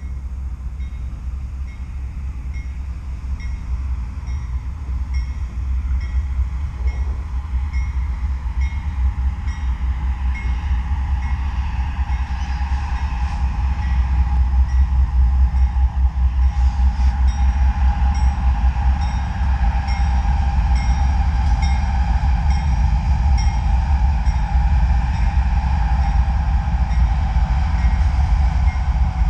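Norfolk Southern freight train rolling past: a steady deep rumble of locomotives and cars that grows louder about halfway through. Over it run a faint regular clicking and, from about the middle on, a steady high tone.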